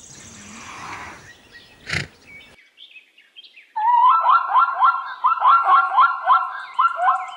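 Birds calling outdoors. After a quiet stretch of background noise, a loud run of short rising notes repeats about three to four times a second, with fainter, higher chirping over it.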